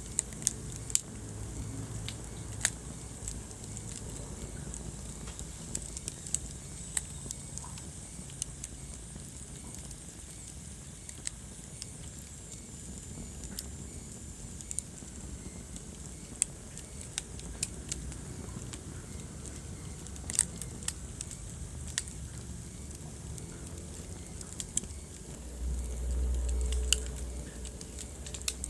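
Wood fire burning in a fireplace, crackling with irregular sharp pops over a steady low rumble. Near the end comes a louder low rumble lasting about two seconds.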